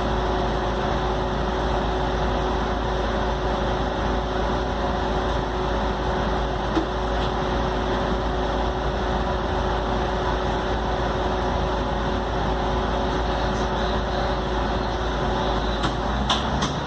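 Scania K310UD double-decker bus running steadily, a constant engine hum with a few faint clicks.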